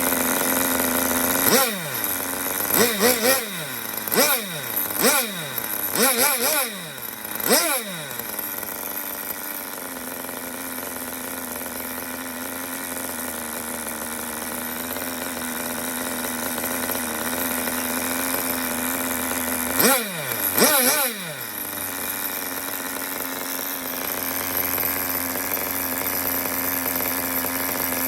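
Kyosho GXR15 two-stroke nitro glow engine idling steadily with quick throttle blips: about eight sharp revs in the first eight seconds, then two more about two-thirds of the way through, each climbing and dropping straight back to idle.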